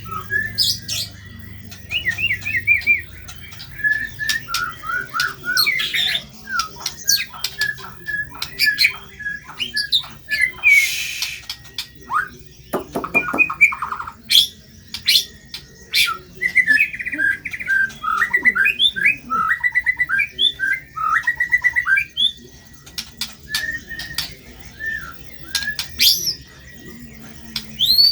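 White-rumped shama (murai batu) singing a fast, varied song. It mixes sharp high whistled notes, rapid chattering trills and harsh squawk-like calls, the rough 'materi kasar' style of phrases borrowed from lovebirds. A harsh, rasping call stands out about eleven seconds in.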